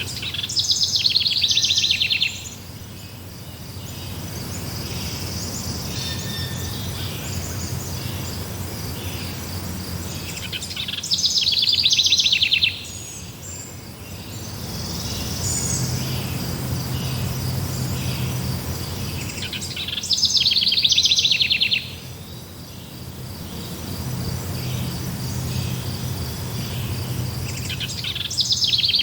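A songbird repeating a loud, fast-trilled song phrase of about two seconds, four times at roughly nine-second intervals, over a steady high chirring of insects and a low background rumble.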